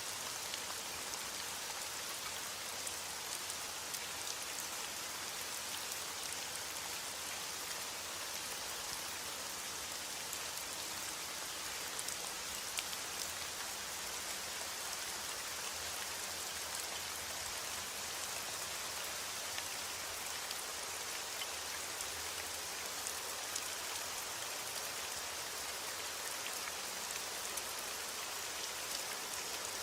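Steady, even rain, with many small individual drop ticks scattered through the hiss.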